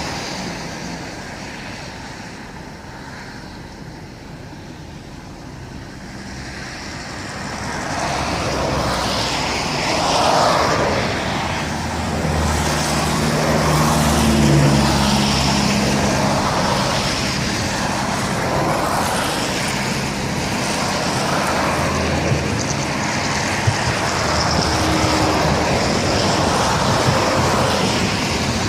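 Passenger train rolling into a station. The rumble is quieter at first, grows louder about a quarter of the way in, and carries a low hum in the middle. A few sharp clicks come in the later part.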